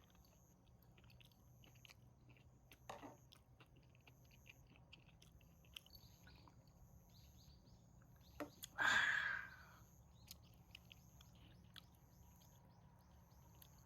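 Close eating sounds: chewing, with small scattered clicks and a short noisy burst about three seconds in. A louder noisy burst of about a second comes near the nine-second mark.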